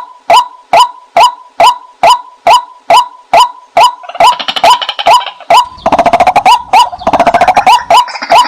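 White-breasted waterhen female call used as a decoy: a loud, monotonous run of short 'kwak' notes repeated about two to three times a second. Around the middle, other overlapping calls and a dense rapid rattle of notes join in.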